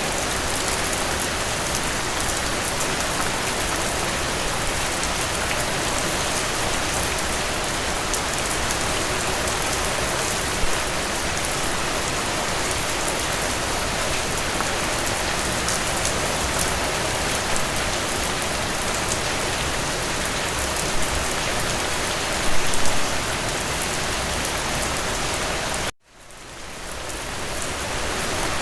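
Steady rain falling, with a few slightly louder drops or taps now and then. Near the end the sound cuts out suddenly and fades back in over a couple of seconds.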